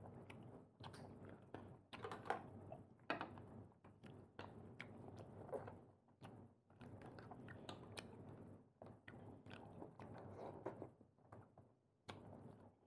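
A person chewing and biting food close to the microphone, with small wet clicks and crunches in short bouts and brief pauses.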